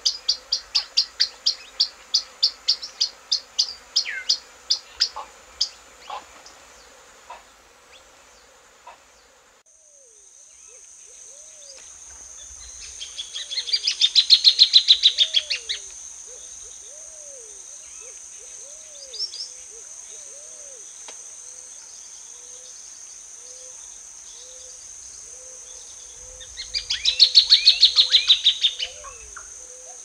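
Plain thornbird song: a long series of sharp, loud chattering notes that slows and fades over the first several seconds, then two short bursts of rapid chatter, about halfway through and near the end. From about a third of the way in, a steady high insect drone runs underneath, with a low, repeated looping call from another animal.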